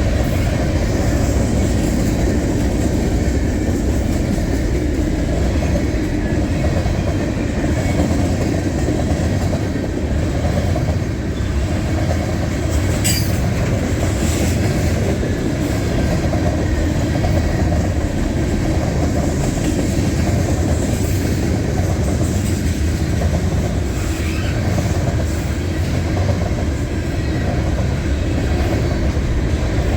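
Freight train cars rolling past at close range: a steady rumble of wheels on rail with clacking over the joints, and a brief high-pitched sound about 13 seconds in.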